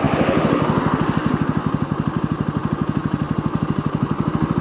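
Motorcycle engine running at a steady speed while riding, its exhaust pulsing fast and evenly, with a steady hiss of noise over it.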